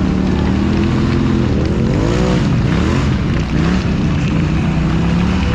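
Off-road vehicle engine running hard at high revs, its pitch dipping and surging up and down a few times in the middle as it goes through the mud and over the jump, then holding steady again.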